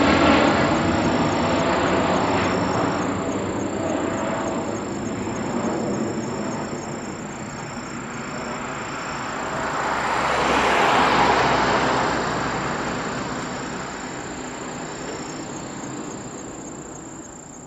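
Jet airliner's engine noise fading away as it climbs out after takeoff, swelling once more about ten seconds in before dying down. Crickets chirp faintly in short high trills.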